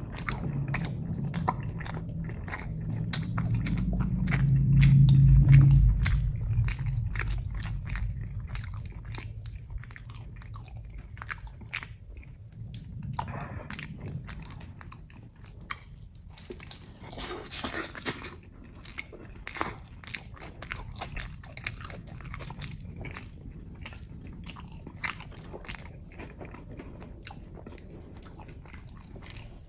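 Close-miked chewing of a mouthful of cheeseburger pizza: many small wet mouth clicks and squishes, with a heavier low rumble in the first few seconds and a short crunch a little past halfway.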